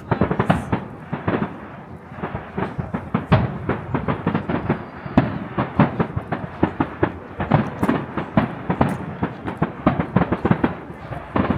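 Fireworks display: a rapid, continuous barrage of sharp bangs and crackles, several a second.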